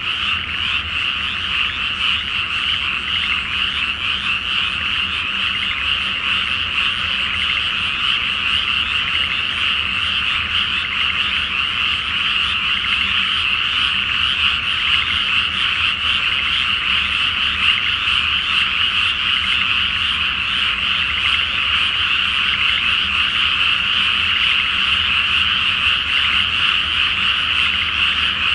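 A great chorus of many frogs calling at once in a flooded rice paddy before planting: a dense, steady mass of overlapping high-pitched calls with no pauses.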